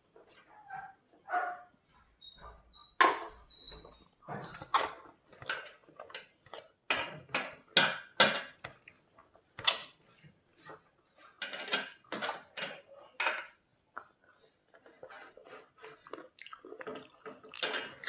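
Someone eating a meal: irregular clinks and taps of a plate and cutlery, mixed with chewing and mouth sounds.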